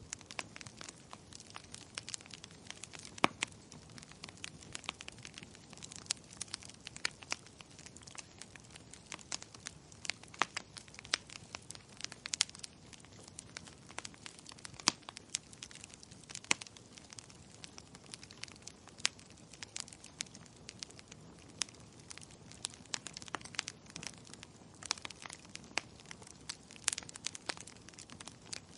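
Wood fire crackling: irregular sharp pops and snaps over a soft steady hiss of burning.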